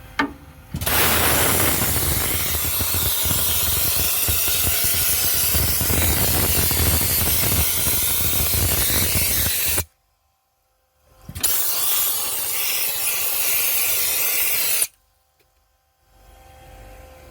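Dry ice blaster spraying compressed air and dry ice pellets: a loud, steady hiss that starts about a second in and cuts off abruptly, then a second shorter blast of a few seconds that also stops suddenly.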